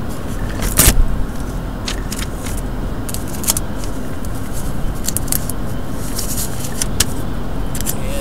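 Steady low rumble of a running vehicle, with scattered clicks and rattles and a louder handling clatter about a second in.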